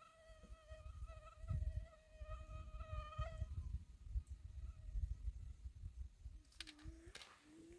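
An insect buzzing with a steady high whine for the first three seconds or so, over low rumbling and thumps that carry on after the buzz stops. A few sharp clicks come near the end.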